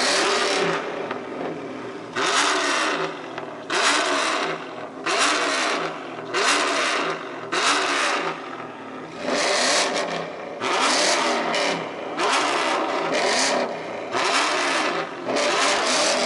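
Car engine revved hard through a loud aftermarket exhaust in a rev battle: about a dozen sharp blips, each rising and falling in pitch, with some held for about a second.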